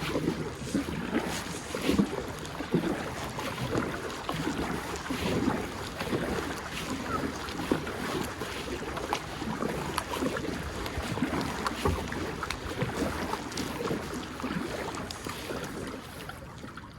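Kayak paddle strokes in the water, repeating about once a second, as the kayak is paddled upstream against the current, with wind buffeting the microphone.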